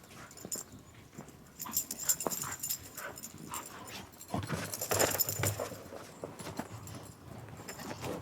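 Dogs playing in snow: irregular scuffling and thumping footfalls. Bursts of hiss come about two seconds in and again around five seconds.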